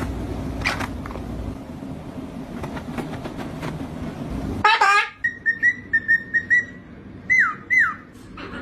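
A bird whistling: one loud harsh call, then a quick run of about six short rising whistles, then two longer falling whistles near the end. Before it is a steady background noise with scattered clicks.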